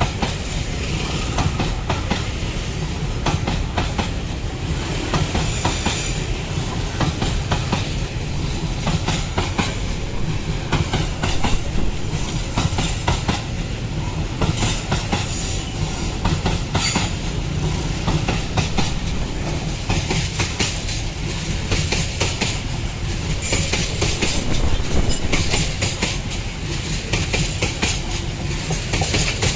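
Coal train wagons rolling past, a steady rumble with a constant clatter of wheels over the rail joints.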